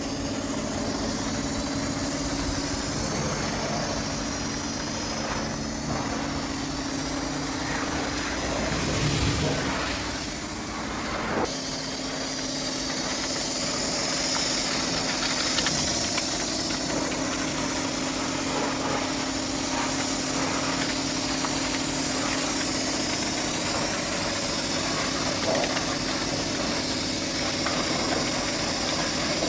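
A steady engine hum with a hiss over it; the sound changes abruptly about eleven seconds in.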